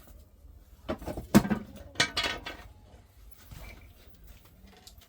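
A few sharp knocks and clattering handling noises, loudest about a second and a half in and again around two seconds in.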